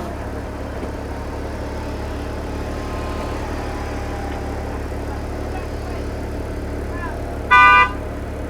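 BMW 128i's 3.0-litre inline six idling steadily after a rev has died away. About seven and a half seconds in, a short, loud horn-like beep.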